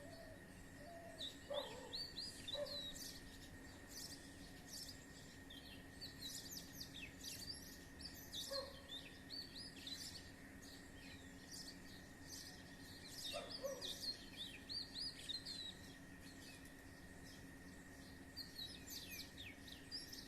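Many small birds in a tree chirping and twittering in quick, high, overlapping bursts. A lower call comes three times, and a faint steady hum runs underneath.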